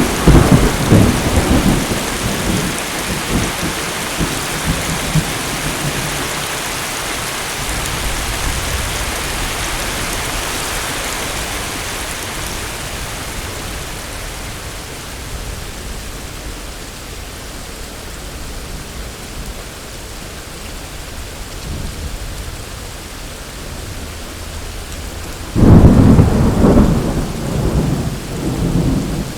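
Thunderstorm with steady heavy rain. Thunder rumbles loudly at the start and fades over several seconds, then a sudden loud thunderclap breaks in near the end and rolls on for a few seconds.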